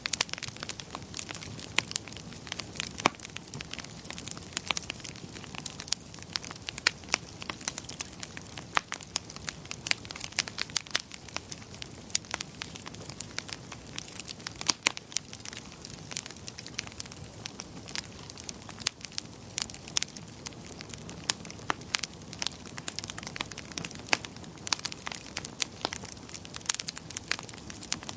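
Wood fire crackling in a fireplace: frequent irregular sharp pops and snaps over a steady soft hiss of the burning.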